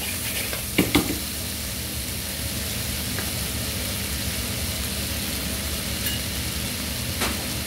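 Chicken and vegetables sizzling steadily in a hot wok, with two quick spatula scrapes against the pan about a second in.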